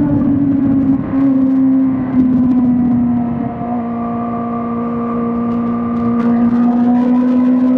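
2005 Suzuki GSX-R1000 K5's inline-four engine running under way, heard onboard. Its note falls over the first few seconds, with brief dips about one and two seconds in, then holds steady and rises slightly near the end, over a rumble of wind and road.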